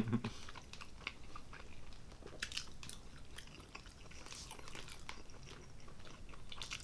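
Close-up chewing and wet mouth clicks of people eating soft rotisserie chicken, a scatter of small smacks and ticks.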